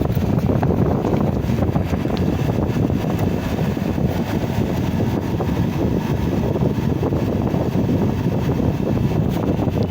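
Air-conditioning unit running steadily with its freshly replaced compressor and fan, a continuous low hum and airflow while the new refrigerant charge cools down.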